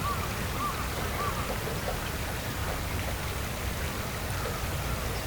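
Steady rushing of flowing water, with three short chirping calls in quick succession near the start.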